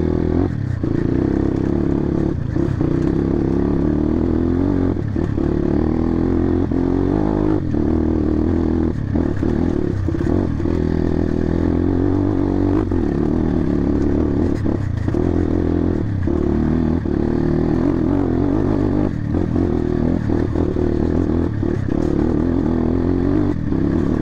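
Enduro dirt bike engine running under way on a dirt trail, its note dipping briefly every couple of seconds as the throttle is eased and opened again, with rattling from the bike over rough ground.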